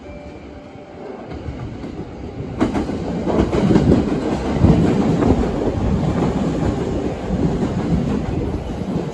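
JR East E231 series 0 commuter train running in along the platform: wheel rumble and clickety-clack over the rail joints. It grows louder as the train nears, jumping sharply about two and a half seconds in as the cars come alongside.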